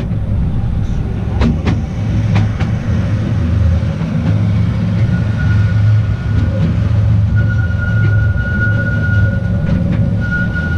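Narrow-gauge Artouste mountain train running along the track, heard from aboard: a steady low rumble with a few sharp clicks early on, and a thin high wheel squeal that comes in about five seconds in and holds.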